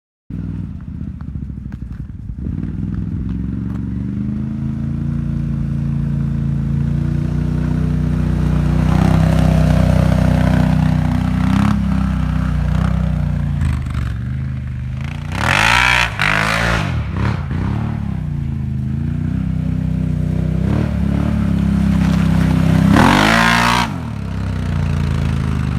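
Can-Am Renegade 1000R XXC ATV's V-twin engine running through an aftermarket Yoshimura exhaust, its pitch rising and falling with the throttle. It is blipped hard twice, once about the middle and once near the end.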